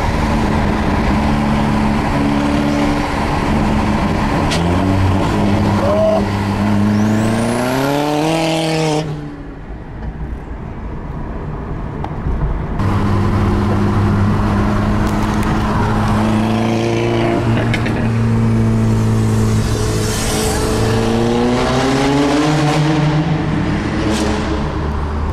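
2003 Volkswagen Jetta 1.8T's turbocharged four-cylinder engine through a straight-piped exhaust, idling and being revved several times, the pitch rising and falling with each rev. About a third of the way in the sound goes quieter and duller for a few seconds, then the idle returns.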